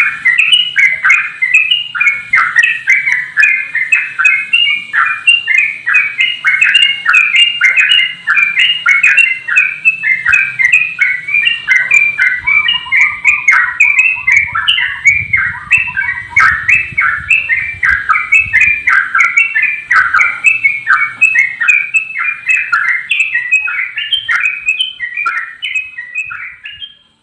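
Male sooty-headed bulbul (trucuk) singing a long, unbroken run of quick, bubbly notes, several a second, which stops shortly before the end. This is the continuous 'ropel' song that bird keepers prize as a sign of a bird in full singing form.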